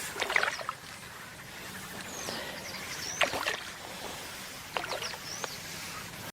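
Water splashing and sloshing in three short bursts, with a few brief high bird chirps over steady outdoor background.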